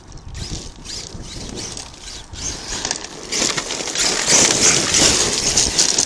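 Crunching and grinding of dirt and gravel, growing louder about three and a half seconds in.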